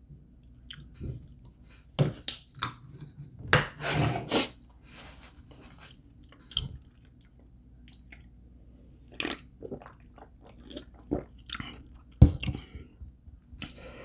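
A person biting and chewing fried chicken wings close to the microphone, with irregular crunchy bites. The loudest bites come about two to four and a half seconds in and again around twelve seconds.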